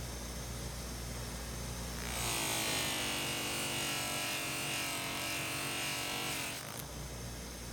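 A small electric motor, like a power tool's, runs with a steady whine for about four and a half seconds over a low background hum, then stops.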